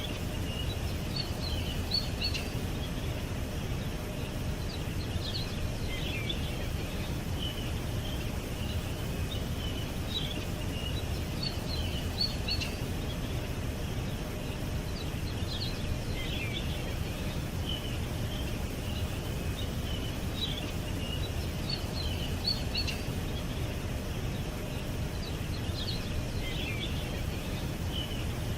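Songbirds chirping in short, repeated clusters of high notes every few seconds, over a steady low rumble of background noise.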